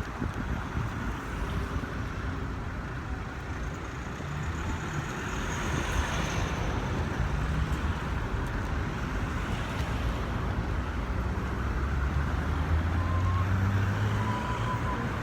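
Steady low rumble of road traffic and car engines, with one engine drone growing louder for a few seconds near the end.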